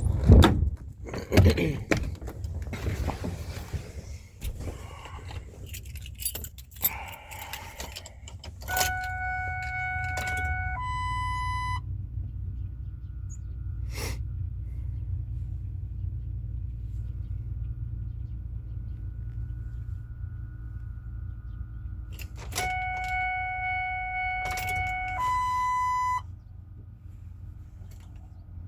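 Keys jangling and rattling, then a two-note electronic warning chime sounding twice, about 9 and 23 seconds in, over a steady low hum, before the 1999 Ford 7.3 diesel has been started.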